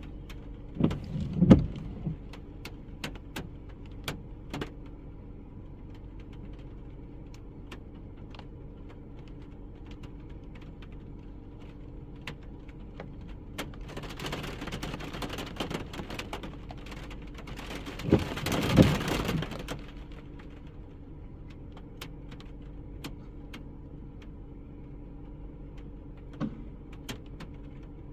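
A vehicle engine running steadily, with scattered sharp clicks and rattles. There is a louder burst of knocks and handling noise about a second in, and another about two-thirds of the way through.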